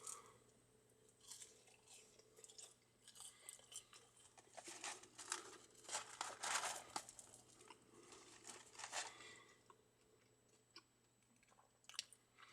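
Faint chewing of McDonald's French fries: soft, irregular crunching bursts, busiest in the middle, dying away about ten seconds in.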